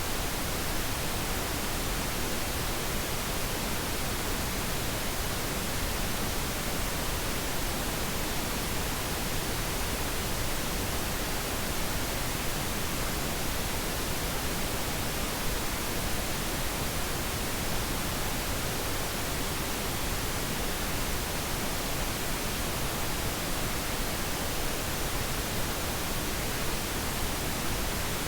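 Steady pink noise: an even, unbroken hiss with no change in level or character.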